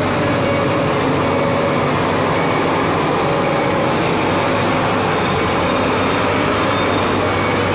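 Asphalt paver's diesel engine and machinery running steadily, with a low hum and an on-and-off mid-pitched whine over a constant mechanical noise.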